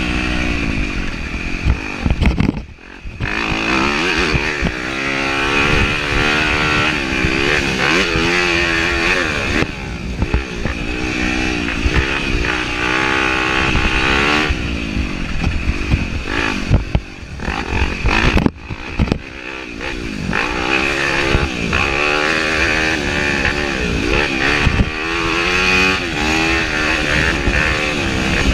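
Yamaha YZ250F dirt bike's single-cylinder four-stroke engine ridden hard on a trail, its pitch climbing and falling again and again with throttle and gear changes. The engine note drops out briefly about three seconds in and again about nineteen seconds in.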